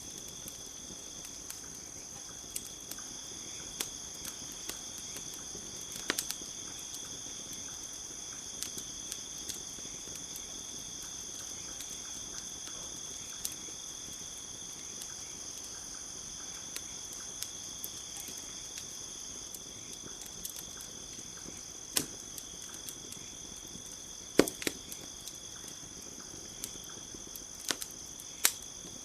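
Campfire crackling, with scattered sharp pops of burning wood, the loudest about 22 and 24 seconds in and again near the end, over a steady high-pitched chirring of crickets.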